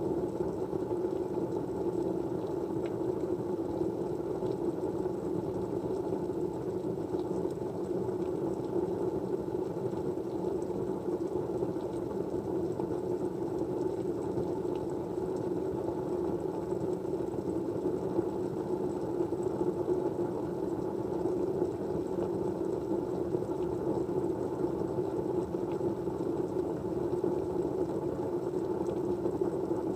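Steady, unchanging low-pitched background noise with no distinct events: a white-noise bed for studying.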